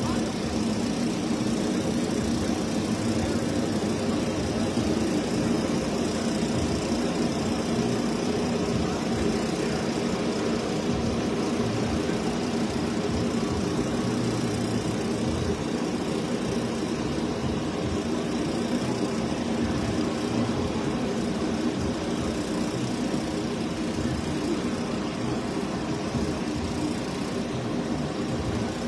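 High-performance drag race car engines idling steadily, with a lumpy, even low running note and no revving.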